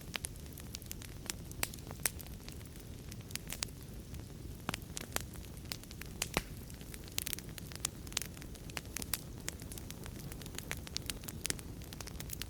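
Wood fire in a fireplace crackling, with irregular sharp pops and snaps, several a second at times, over a low steady rumble.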